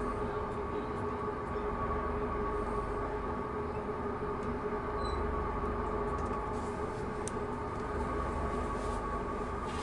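Steady mechanical hum of a stationary passenger train, heard from inside the carriage: a low rumble with a couple of steady tones over it.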